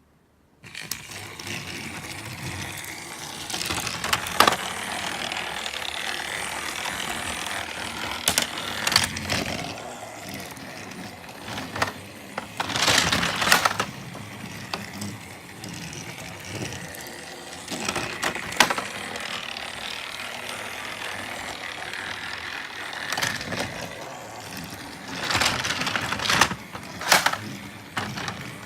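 Battery-powered Thomas TrackMaster toy train running on plastic track, its small geared motor whirring steadily. There are several louder plastic clatters along the way, as when the tornado accessory spins the train. The motor starts about a second in.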